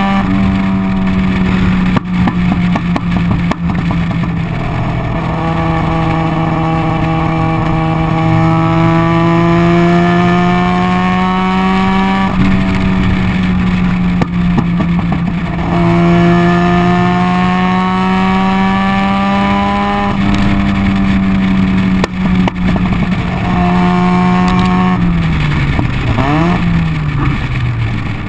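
Bridge-ported, carbureted 13B rotary engine of a 1985 Mazda RX-7 under way, loud, revving up in several long pulls. Sharp pops come off throttle between the pulls, the backfiring the car does consistently off throttle. Near the end the pitch drops as the engine winds down.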